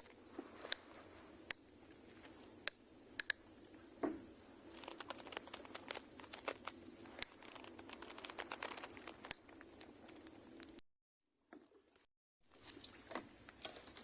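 Steady, high-pitched chorus of night insects in a mangrove, with scattered light clicks. The whole sound cuts out for about a second and a half, about three-quarters of the way through, then resumes.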